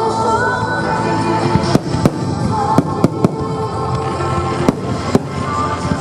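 Fireworks shells bursting in sharp, irregular bangs, about seven of them starting a couple of seconds in, over music playing throughout.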